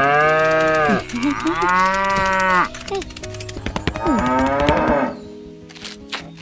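Cow mooing: two long calls in the first three seconds, then a shorter moo falling in pitch about four seconds in.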